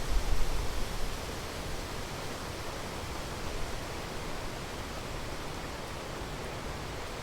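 Large waterfall, the Rhine Falls, giving a steady, even rush of falling water with no breaks.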